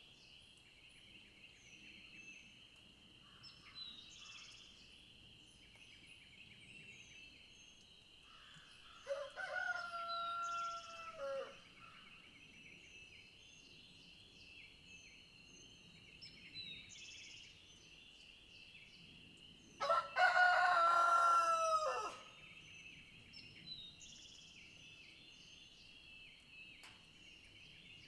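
A rooster crows twice, each crow about two and a half seconds long, the second louder. Behind it a steady high-pitched drone and small birds chirping now and then.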